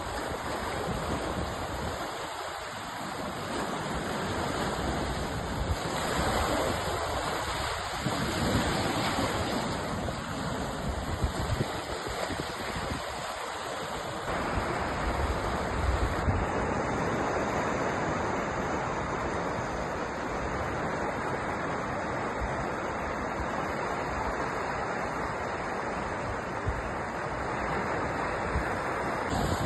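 Sea waves breaking and washing ashore: a continuous surf wash that swells and eases slowly.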